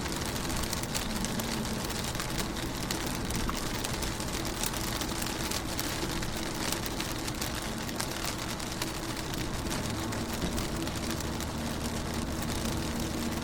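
Rain falling on a car, heard from inside: a steady patter of raindrops hitting the window and body, with a faint low hum underneath.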